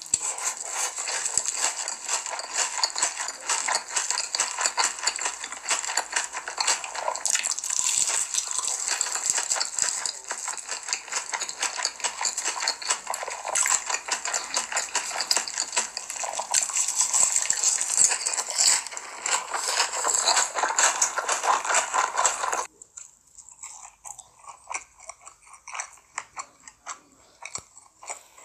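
Close-miked crunchy chewing of crispy fried hash brown, a dense run of crackling. Near the end it switches abruptly to much quieter, sparse soft mouth clicks of chewing sushi.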